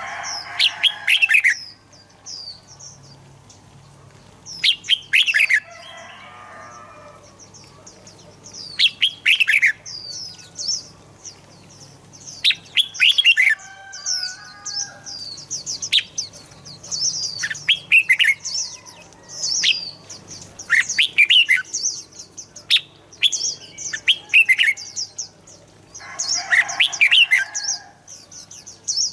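Red-whiskered bulbuls singing: loud, clear phrases of quick falling whistled notes every few seconds, over an almost unbroken run of high chirps.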